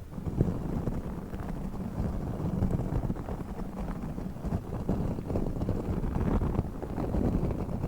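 A pink star-shaped ASMR trigger object is rubbed and pressed against the microphone, making a dense, continuous low rumbling with fine crackles.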